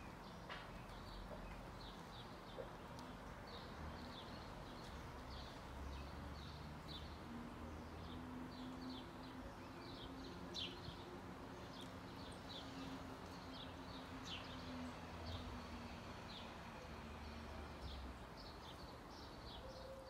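Garden birds chirping in many short, high notes, scattered irregularly. A low steady hum sits underneath through the middle.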